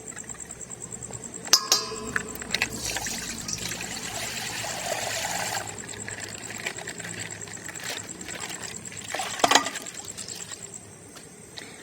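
Coloured water pouring and splashing out of a burst plastic bag, with plastic crinkling and a few sharp clicks, the loudest about a second and a half in and again near the end.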